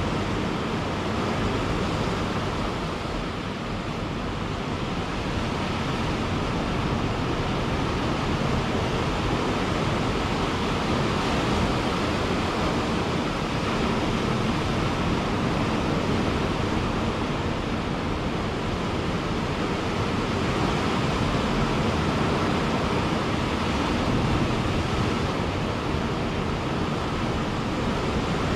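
Ocean surf washing onto a beach: a continuous dense rush of waves, swelling and easing slightly in loudness.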